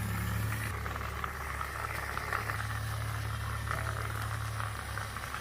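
Small DC toy motor running steadily, with a low hum and a continuous crackly rattle that drops off slightly near the end.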